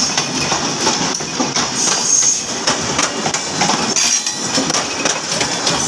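Train wheels running over the rails, a steady rumble with a dense, irregular clatter of metallic knocks and clinks.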